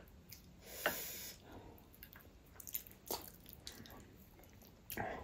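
A person eating: soft, wet chewing and mouth smacks, with a few short clicks spread through.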